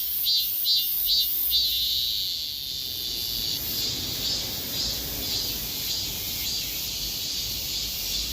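Korean robust cicada (Hyalessa fuscata) singing: pulsed calls about two a second, which run together a little over a second in into one long held buzz, then go back to fainter pulses.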